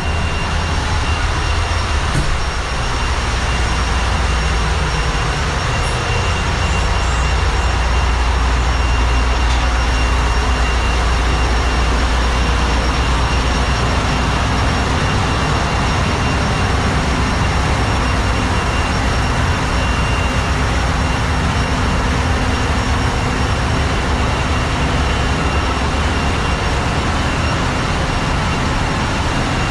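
Machinery running in a large tanker ship's engine room: a loud, steady din with a deep low rumble and a few thin, constant high whines over it.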